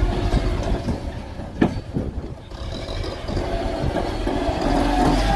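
Diesel tractor engine running under load, with rattling and clanking knocks; one sharp knock about a second and a half in, then briefly quieter.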